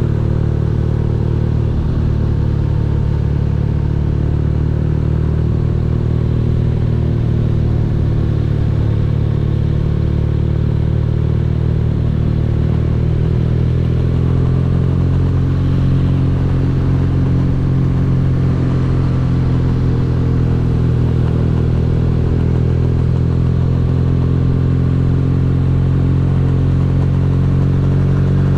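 BMW R nineT's air/oil-cooled boxer-twin engine running steadily under way, its pitch rising gradually from about halfway through as the revs climb.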